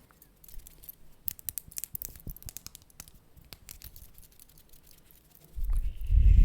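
Close-miked ASMR trigger sounds: scattered crisp clicks and scratching, thickest between about one and two and a half seconds in, then a loud low rumble near the end.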